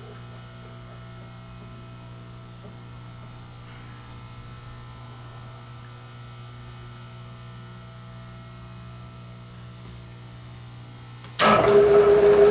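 Steady electrical hum from the shop machinery, then about eleven seconds in a machine tool's spindle motor switches on and runs with a loud, steady whine, ready to drive the reamer.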